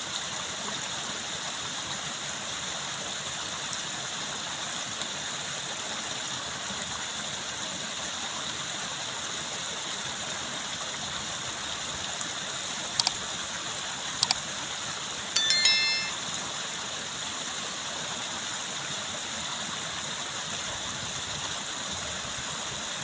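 Steady rush of running water. Two short clicks come near the middle, then a brief, loud, high sharp sound about two-thirds of the way through.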